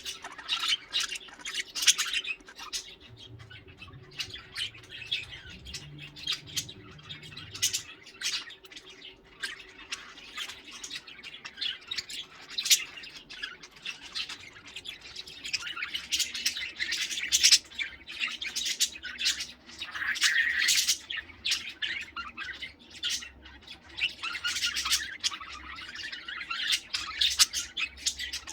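Several pet budgerigars chattering and warbling, with a steady stream of quick chirps and squawks overlapping one another.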